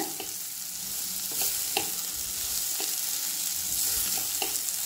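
Steel spoon stirring coarsely ground black chickpeas and spices frying in oil in an aluminium pressure cooker, a steady sizzle with a few light clicks of the spoon against the pot.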